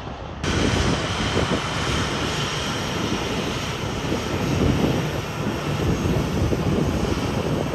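Jet airliner engines, a loud steady rush with deep rumble, coming in abruptly about half a second in.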